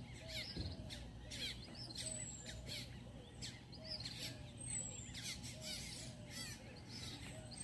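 Birds chirping and calling: many short high chirps and a repeated short lower call note, over a steady low hum.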